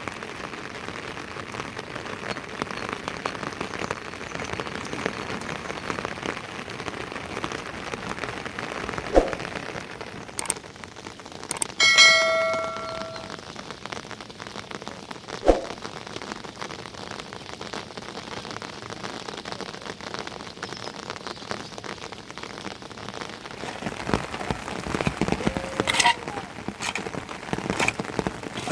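Steady rain falling on surfaces, with two sharp knocks and, about twelve seconds in, a brief ringing tone lasting about a second.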